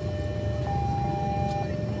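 Railway level-crossing warning alarm sounding, switching between two steady tones about once a second, which signals that a train is approaching. A low rumble runs underneath.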